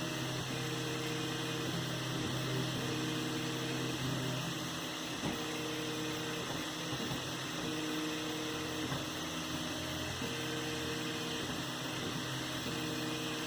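3D printer running: its stepper motors whine in pitched stretches of about a second that repeat every two to three seconds as the head moves, over steady fan hiss and hum.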